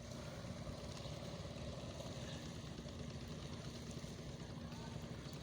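An engine running steadily at idle: a low, even throb with a steady hum over it.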